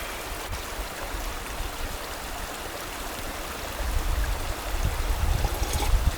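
Mountain stream flowing in a steady rush, with a low rumble growing louder about two-thirds of the way in.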